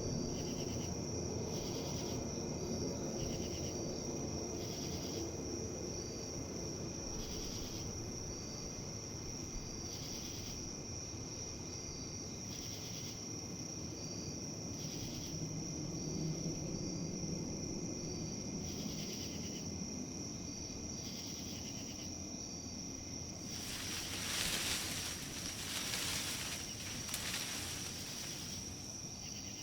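Outdoor nature ambience: insects chirping in a steady, regular pulse over a constant high trill, with wind moving through leaves underneath. Near the end, a louder gust rustles the leaves for a few seconds.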